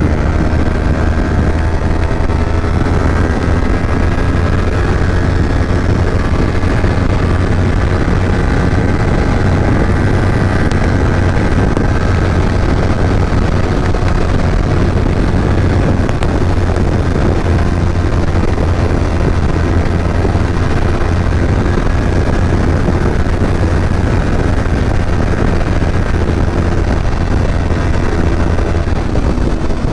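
Kawasaki Ninja 250 motorcycle engine running steadily while riding at speed, with wind rushing over the microphone.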